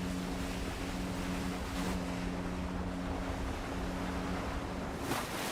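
Sea surf and wind noise washing steadily, with a steady low hum underneath.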